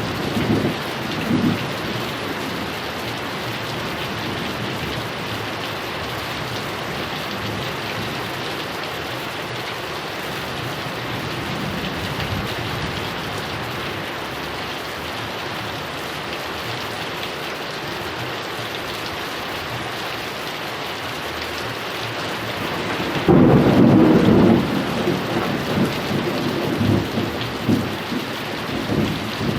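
Heavy rain falling steadily, with thunder. A rumble dies away in the first couple of seconds, and a loud thunderclap breaks about 23 seconds in, then rolls on in uneven rumbles for several seconds.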